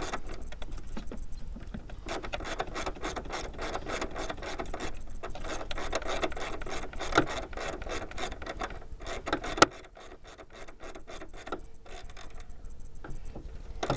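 Socket ratchet clicking quickly and evenly, about five clicks a second, as a bolt is run in. One sharp, louder click comes a little under ten seconds in, and after it the clicking is sparser and quieter.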